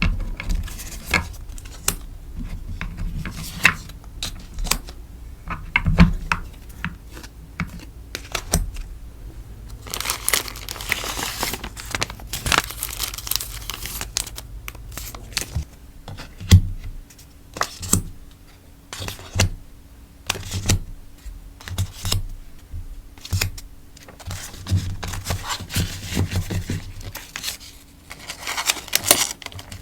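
Hands packing a sticker order: crinkling of plastic and paper packaging with many light taps and handling clicks. Longer spells of crinkling come about ten seconds in and again near the end.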